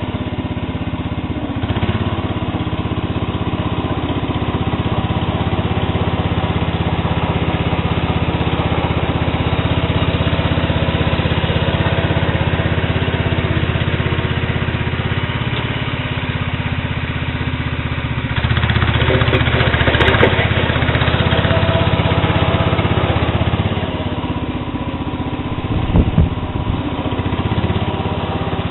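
Sears Suburban SS12 garden tractor's engine running steadily. It gets louder for a couple of seconds about two-thirds of the way in, with a few short low knocks near the end.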